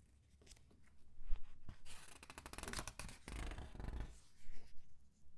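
Comic book pages being turned and squeezed by hand: a soft paper rustle builds about a second in, then a dense crinkling of the squeezed pages, a low muffled thump, and a few short crackles near the end.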